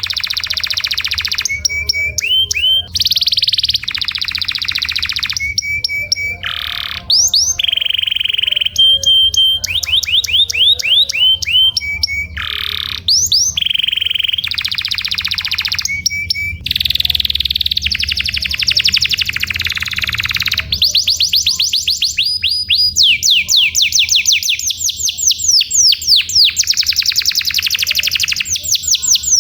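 Domestic canary singing continuously: long rolling trills and rapid series of repeated high notes, the phrases changing every second or two, with a run of fast sweeping notes in the last several seconds.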